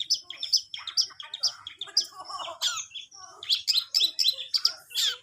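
Long-tailed shrike (cendet) singing a rapid, varied string of short high chirps and squeaky notes.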